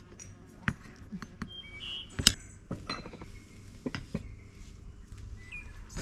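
A few short bird chirps among scattered sharp clicks and clinks, the loudest click a little over two seconds in.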